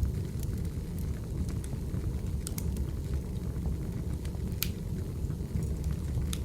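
Firewood burning with irregular sharp crackles and pops over a steady low rumble; one pop about two-thirds of the way through is the loudest.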